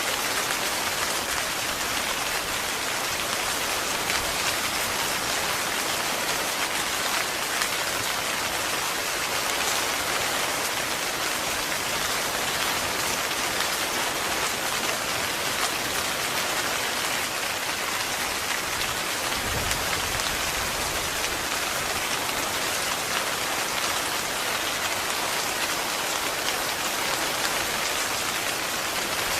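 Heavy, steady rain pattering on a tent, with a brief low rumble about two-thirds of the way through.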